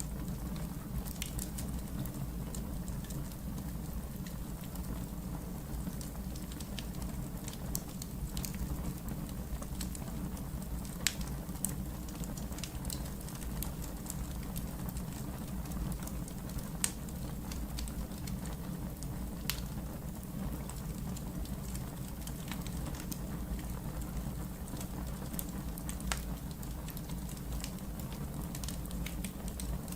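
Wood fire burning in a fireplace: a steady low rumble with sharp crackles and pops scattered every few seconds.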